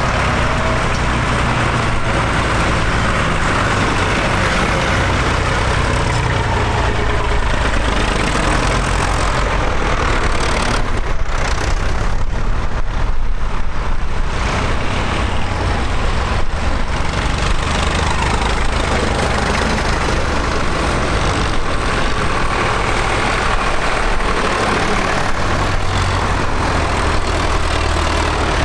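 Diesel tractor engines running steadily, with a low engine hum throughout. The sound grows louder and heavier for a few seconds about a third of the way in.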